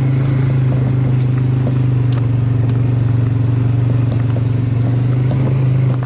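Chainsaw engine running at a steady speed, a constant low-pitched drone that neither revs up nor drops.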